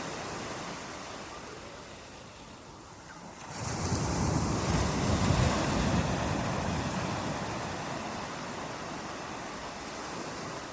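Rushing water, a steady noise that sinks low, then swells up suddenly about three and a half seconds in and slowly eases off again, like a wave coming in.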